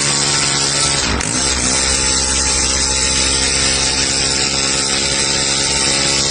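Miniature single-cylinder model engine running steadily at high speed, with a brief dip in its note about a second in.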